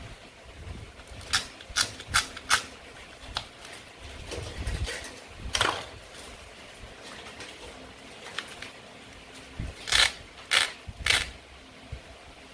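Sharp clicks and taps of toy fruit and vegetable pieces being cut and handled, with four quick clicks in the first few seconds, a softer one midway and three louder clicks near the end.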